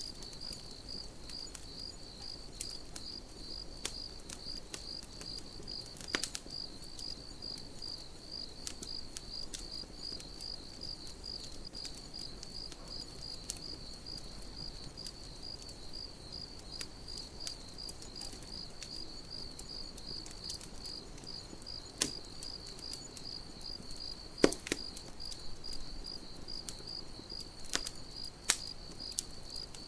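Crickets chirping in a steady, evenly pulsing rhythm, with a campfire crackling: scattered small clicks and a few sharper pops, the loudest about two-thirds of the way through.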